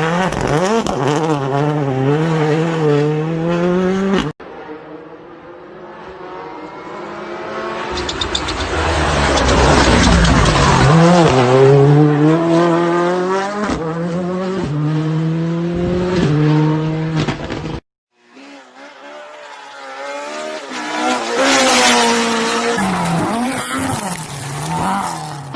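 Rally cars at full throttle on a special stage: engines revving hard, the pitch climbing and then dropping back at each upshift, in three clips joined by abrupt cuts. In the middle clip a car approaches, growing louder as it comes.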